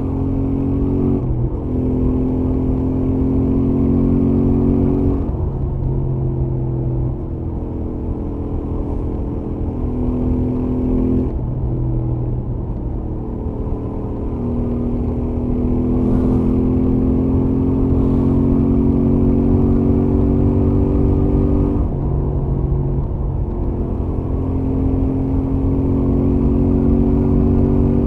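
Royal Enfield Interceptor 650's parallel-twin engine with its stock exhaust, running at highway speed. Its pitch climbs slowly under throttle and drops back several times, about a second in, near five, seven, eleven, fourteen, twenty-two and twenty-three seconds, before climbing again.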